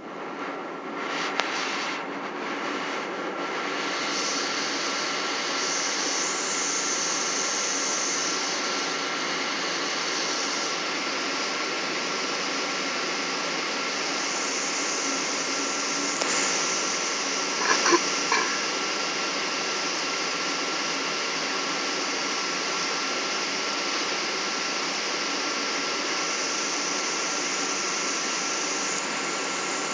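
Boeing 777 jet engines heard inside the passenger cabin, rising over the first few seconds to a steady, loud rushing noise with a thin high whine, as at takeoff thrust. A few brief rattles come about two-thirds of the way through.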